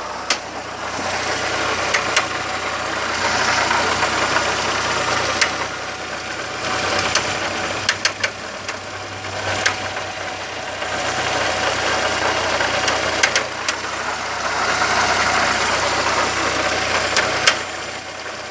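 Volkswagen Gol 1.0 engine running with a noise of unknown cause, with scattered sharp clicks over the steady running. The engine sound swells louder and drops back a few times.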